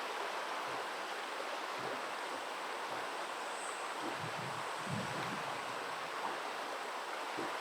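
Steady rush of flowing river water, with a few faint low rumbles about four to five seconds in.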